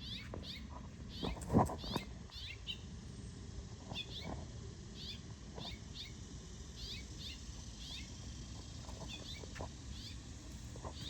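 A bird chirping over and over in short high chirps, about two or three a second. A single thump comes about a second and a half in.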